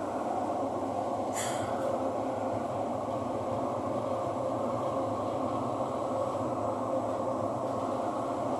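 Thomson-East Coast Line MRT train running between stations, heard from inside the car: a steady rumble of wheels on rail and traction noise. About a second and a half in comes a brief high squeal.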